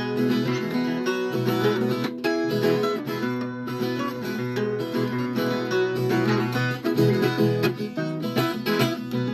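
Viola caipira (Brazilian ten-string folk guitar) playing an instrumental passage of plucked and strummed notes between sung verses.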